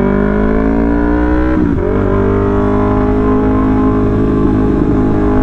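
Yamaha R3's parallel-twin engine accelerating through a loud exhaust: the pitch climbs, breaks off briefly at an upshift about a second and a half in, then keeps pulling and slowly rises in the next gear.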